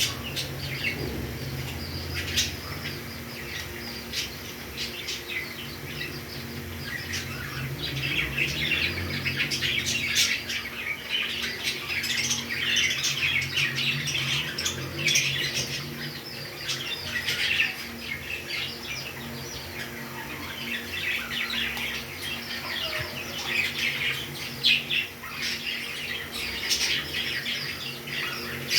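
Pet parrots chirping and squawking in quick, overlapping calls, busiest from about eight seconds in.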